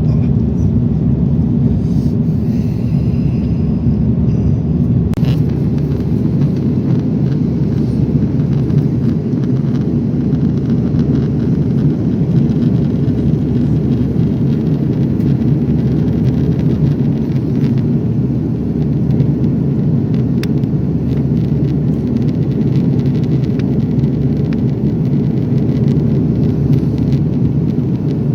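Steady low rumble of cabin noise inside an Airbus A340 airliner: engine and airflow noise, unchanging throughout.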